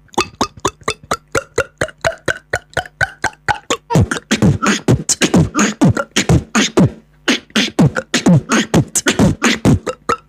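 Vocal beatboxing of water-drop sounds over a beat: a fast run of mouth clicks and kick-like thumps, woven with pops that drop quickly in pitch, most of them from about four seconds in.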